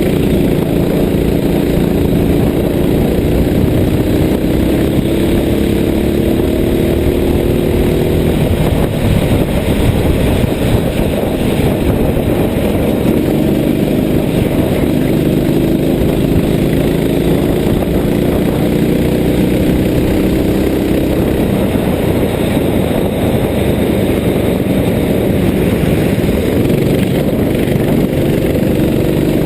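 A vehicle engine under way with constant road noise. Its note climbs slowly for about eight seconds, drops, then climbs again and drops near the end, like an engine pulling up through the revs between gear changes.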